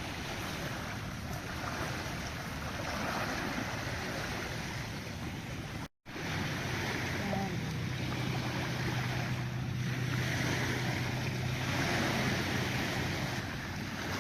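Wind buffeting a phone microphone over open water, with a steady rush of wind and waves. After a brief cut-out about six seconds in, a steady low hum runs under the wind for most of the rest.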